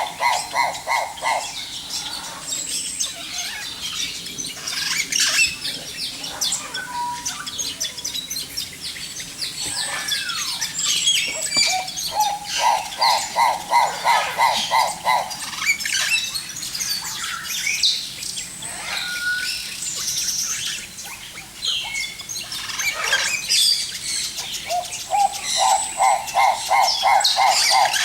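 Many birds chirping and squawking together, with several calls overlapping. A run of rapid, evenly spaced notes, about four or five a second, comes back three times: at the start, about halfway through and near the end.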